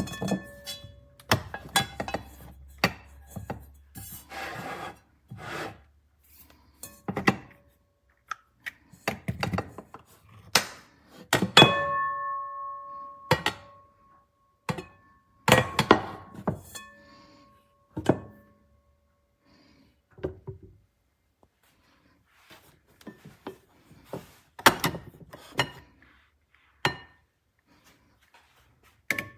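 Nonstick pots, pans and lids being handled, with irregular knocks and clinks as they are set down and bumped together. A few strikes leave a brief metallic ring, the longest about a third of the way in.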